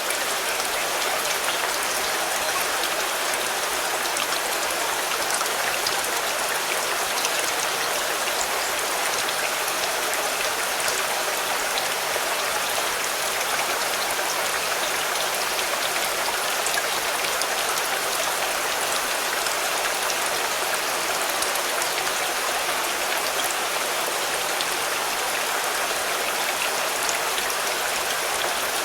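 Steady rain falling on a car, a dense, even patter of drops with no let-up.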